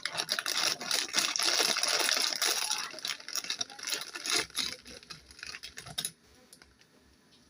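Someone eating a bowl of instant noodles: a rapid run of small clicks and rattles with a hiss, thinning out and stopping about six seconds in.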